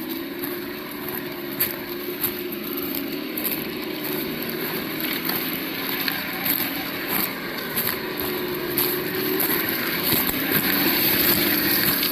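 Absima Yucatan 1:8 RC crawler driving, its sound module playing a simulated engine hum that wavers slightly in pitch, over irregular clicks and crackles.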